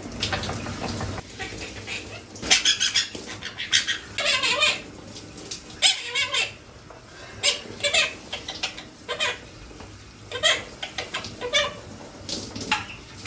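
Pet parrot making a string of short calls and chattering sounds, some bending in pitch, with pauses between them.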